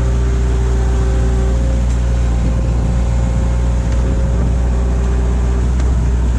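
Bobcat skid-steer loader's engine running steadily, a loud, even drone.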